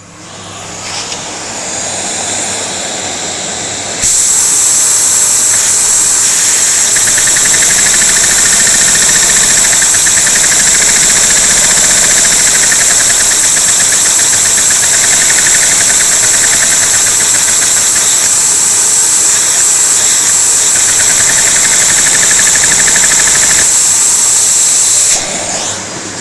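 A vacuum cleaner's motor running and driving a Lego vacuum engine by suction: a steady high whine and hiss that builds over the first few seconds, jumps much louder about four seconds in, and drops back near the end.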